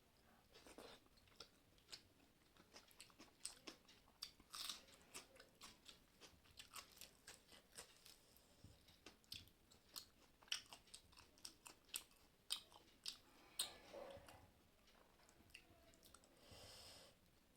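Faint close-up eating: a person chewing and crunching food, with many short, irregular mouth clicks and crunches.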